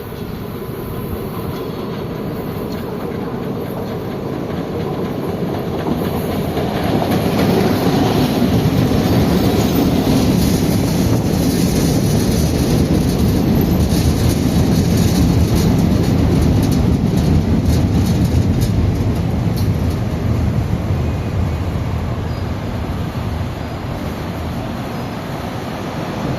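Electric metro train on the Recife Metro's South Line running along the station, its rumble growing louder to a peak in the middle and then easing off, with wheels clicking over the rails at its loudest.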